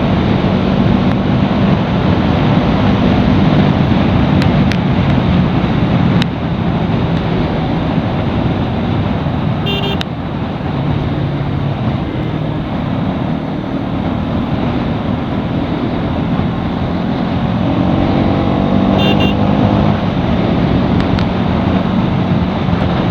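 Bajaj Pulsar NS200's single-cylinder engine running under way amid road and wind noise in traffic, its pitch rising about three-quarters of the way through as it accelerates. Horns honk briefly, once about halfway in and again a little later.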